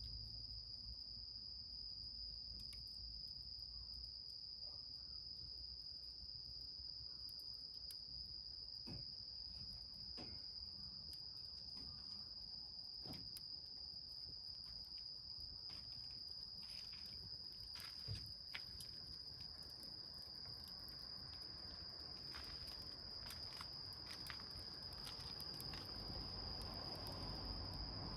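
Crickets trilling in one steady high-pitched note, with scattered faint crackles and pops from a small wood fire burning in a tin can.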